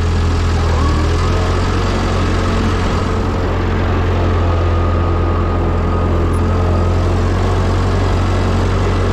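Ford 9N/2N tractor's four-cylinder flathead engine running steadily with a low, even hum.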